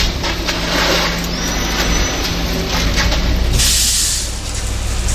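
Heavy truck engine running steadily, typical of a concrete mixer truck at a pour. There is a short burst of hiss about three and a half seconds in.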